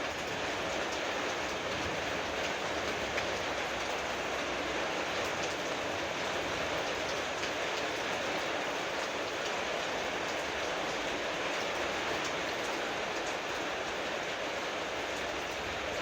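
Heavy rain downpour: a steady, even rush of rain with faint scattered drop ticks.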